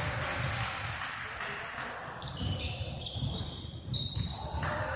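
Basketball being dribbled on a gym floor, with low irregular bounces, and sneakers squeaking on the court for a moment about halfway through, over indistinct players' voices.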